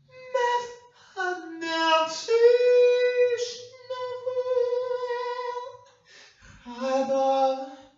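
A single voice singing a slow, wordless-sounding melody in three phrases. The middle phrase is the longest, climbing in steps and then holding one long high note.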